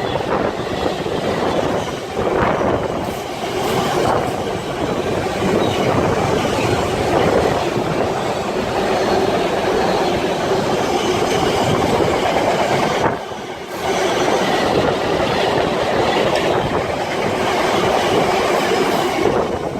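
Intermodal freight train hauled by a Class 66 diesel passing: a long rake of wagons rumbling and clattering over the rails, with a brief dip in level about two-thirds of the way through.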